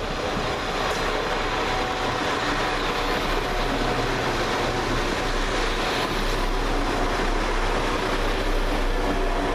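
Class 172 Turbostar diesel multiple unit running past close by along the platform line, the sound of its engines and wheels swelling in the first second and then holding steady.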